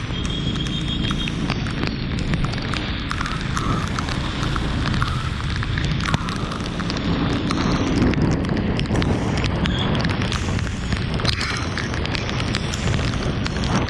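Heavy rain falling steadily, thick with the ticks of separate drops striking nearby surfaces over a strong low noise.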